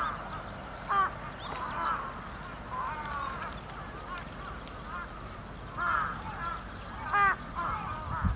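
Several birds calling over one another in a steady stream of short, harsh calls, the loudest about a second in and again about seven seconds in.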